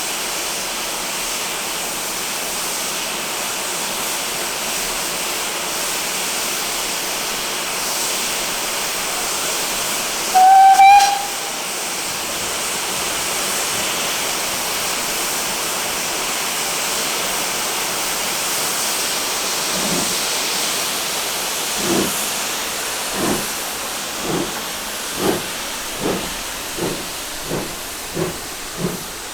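Steam locomotive standing with a steady hiss of escaping steam, giving one short whistle blast about ten seconds in. Near twenty seconds in it starts away, its exhaust chuffs slow at first and then quickening.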